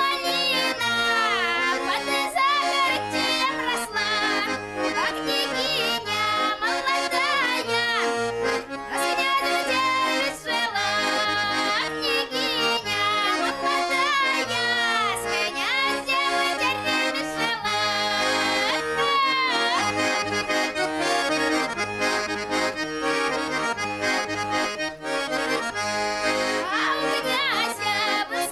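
Accordion playing a traditional-style tune, steady and continuous.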